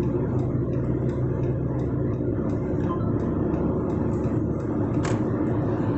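Steady road and engine noise of a moving car, heard from inside its cabin, with one brief click about five seconds in.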